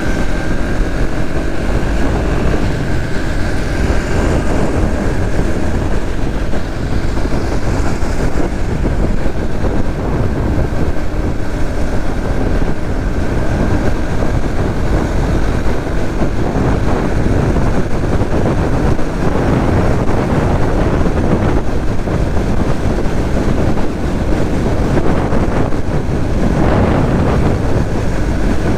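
Loud, steady wind rushing over the microphone of a Suzuki GSX-S150 motorcycle being ridden. Under it is a faint engine note from the bike's small single-cylinder engine, clearest near the start.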